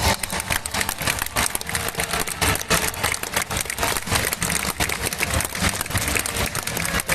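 Large crowd applauding, many hands clapping in a dense, irregular patter.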